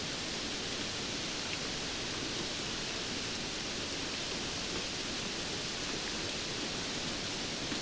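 Steady rainfall: an even, unbroken hiss of rain with a few faint light ticks of drops.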